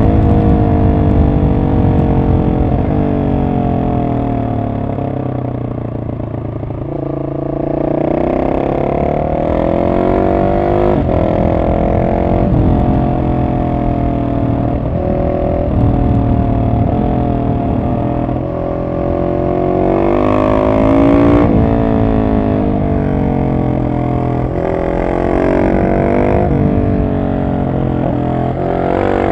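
Husqvarna 701 SM's single-cylinder engine through an Arrow exhaust with the catalyst removed, heard from on the bike. The revs climb and drop again and again through the gears and on and off the throttle, with a longer fall in revs a few seconds in before it pulls up again.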